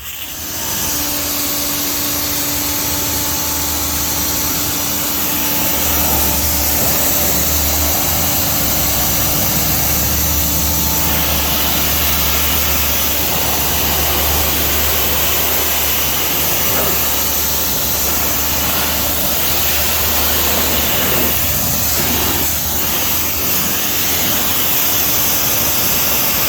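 Pressure washer starting up and running steadily, its motor humming under the loud hiss of the water jet as it rinses foam and bugs off a car.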